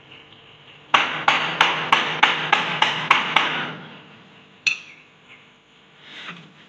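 Hammer blows, about eight in quick succession at roughly three a second, each with a short ring, then one more blow about a second later.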